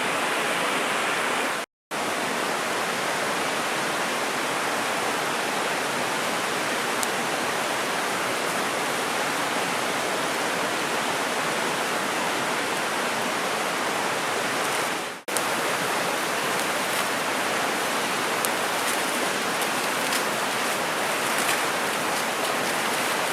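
Mountain stream rushing steadily. It cuts out to silence for a moment about two seconds in and dips briefly again about fifteen seconds in. Faint light ticks sound over it near the end.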